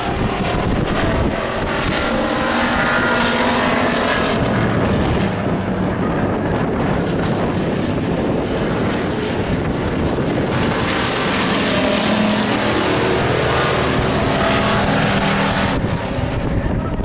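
Engines of stock race trucks running at speed on the oval, a steady loud drone of several motors. Brighter and fuller for several seconds from about ten seconds in, easing off near the end.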